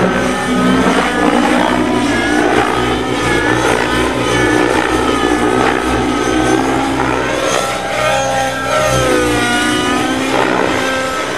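Engine of a large radio-controlled helicopter running hard, its pitch rising and falling over and over as the throttle changes.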